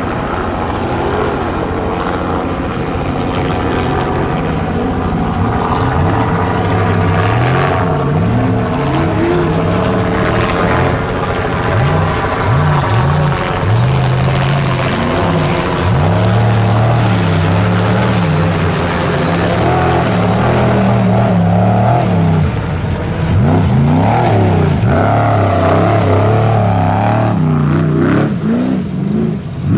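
Trophy Truck off-road race engine revving hard and unevenly, its pitch rising and falling again and again as the truck works over rough ground; loud and continuous.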